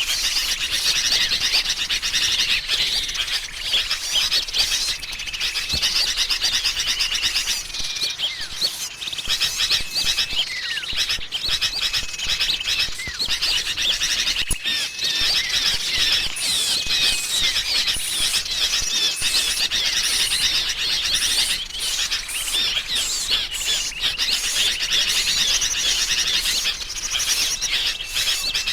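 Bird-luring recording of sooty-headed bulbuls calling noisily and agitatedly, mixed with chattering small birds in a dense, unbroken chorus of chirps and trills. A thin held high note comes back every few seconds.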